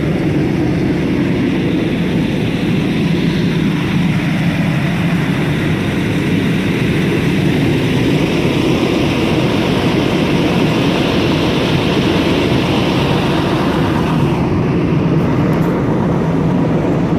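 Steady rumble and road noise of a car on the move, with no breaks or distinct events.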